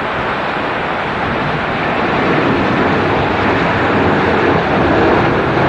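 Boeing 737-800 jet engines, their rushing noise growing louder about two seconds in, over the steady hiss of heavy rain.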